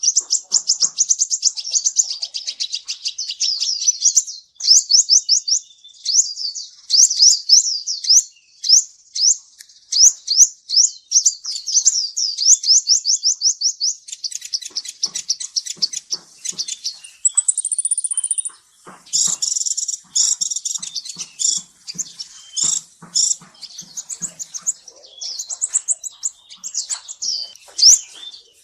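Olive-backed sunbird (kolibri ninja) singing: long, fast runs of high, thin sweeping notes and chattering trills, with a brief higher whistled note about seventeen seconds in.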